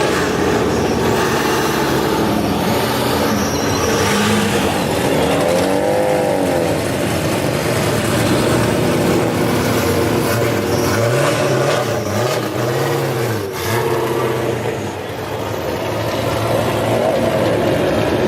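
Car and truck engines running and revving. The pitch rises and falls in a few revs, about six seconds in and again from about eleven to thirteen seconds.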